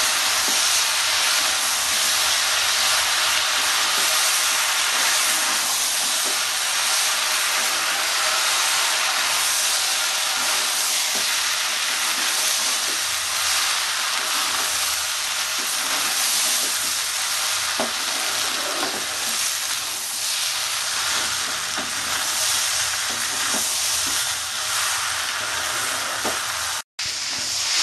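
Rice and spiced vegetables sizzling as they fry in a pan, stirred and turned with a spatula that scrapes along the pan. A momentary dropout near the end.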